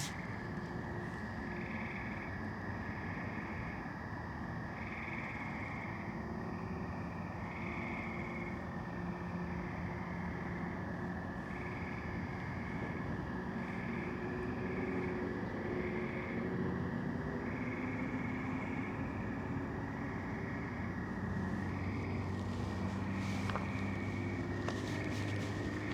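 Frogs calling on a spring night: a short call repeated about once a second over a steady high drone, with a low traffic rumble underneath. Footsteps start near the end.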